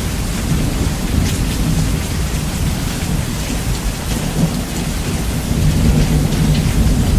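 Steady rain with a continuous rumble of thunder, heavily bass-boosted. The rumble swells louder over the last second or two.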